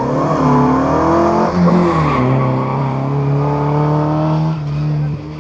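Historic rally car engine driven hard on a special stage: it revs up, its pitch drops sharply about two seconds in as the driver shifts or lifts, then it climbs steadily under full throttle, with a short dip in loudness near the end.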